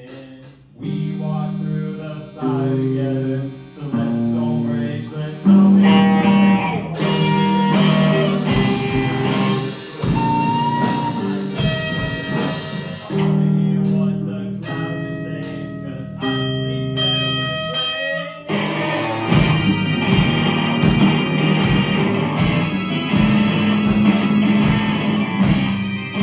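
A live rock band plays an instrumental break with no vocals: guitar chords change every second or two over a bass line, and melodic guitar lines enter about six seconds in. The playing gets fuller and denser, with more drum hits, about two-thirds of the way through.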